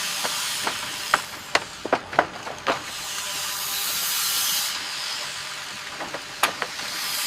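Construction work noise: a steady hiss with irregular sharp knocks and clicks, mostly in the first few seconds, the hiss swelling in the middle.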